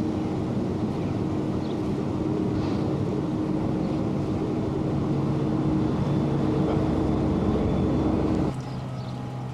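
Boat engine running steadily under way, a low hum with a fixed tone; near the end it drops suddenly to a quieter, lower hum.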